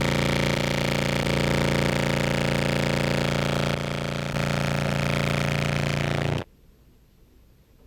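Contrabass clarinet sample of a sustained low note played through a fuzz and compressor pedal chain, a heavy steady buzzing tone with a slight dip just before the middle. It cuts off suddenly about six and a half seconds in, leaving a faint hum.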